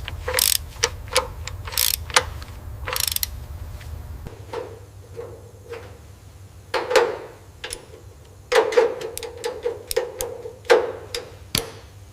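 Hand tools working on metal engine parts: irregular clicks and clanks with a ringing metallic note, some short scrapes, as bolts are fitted and tightened. A low hum runs under the first four seconds or so, then stops.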